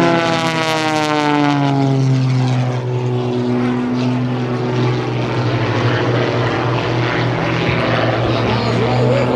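Propeller engine drone of the Extra 300S and MX2 aerobatic planes making an opposing pass: the engine note drops in pitch over the first few seconds as they go by, then settles into a steady drone.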